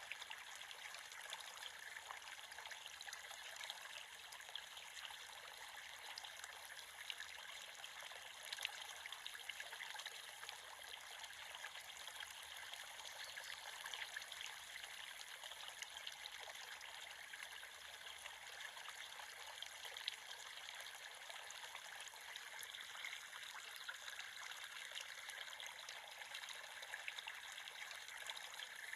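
Small creek flowing steadily, a bright, fine babble and trickle of water over stones.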